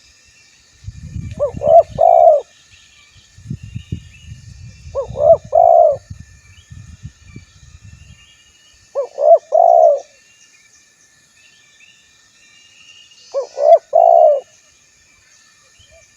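Spotted dove (tekukur) cooing: four calls about four seconds apart, each two short coos followed by a longer, rolling coo. Faint chirping of other small birds runs underneath.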